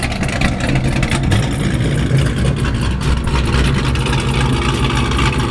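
A car engine running with a steady, deep, even rumble and no big revs.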